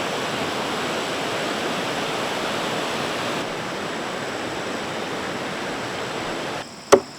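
Steady rushing, water-like noise that cuts off abruptly near the end, followed by one sharp chopping strike.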